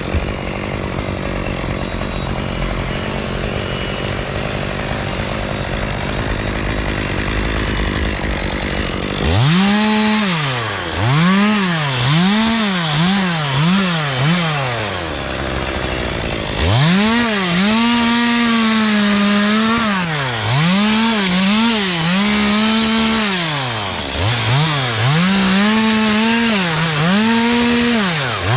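Chainsaw running steadily, then revved in repeated surges from about nine seconds in, its pitch rising and falling roughly once a second.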